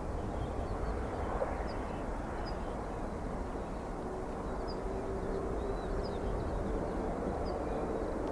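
Jet airliner engine noise: a steady rumble, with a steady engine whine coming in a few seconds in. Small birds chirp now and then over it.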